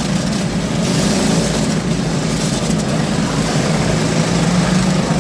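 Several lawn tractor engines running at once in a derby heat, a steady loud drone whose pitch wavers a little as they throttle and shove.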